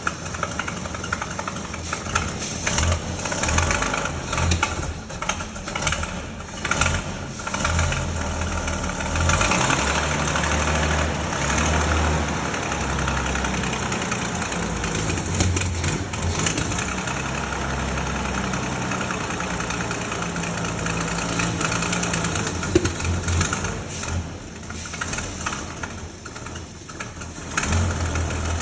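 A freshly overhauled 1932 Bedford WLB's six-cylinder petrol engine on its first start attempt. It catches and runs unevenly at first, then settles into steadier, rough running. Near the end it falters briefly and picks up again.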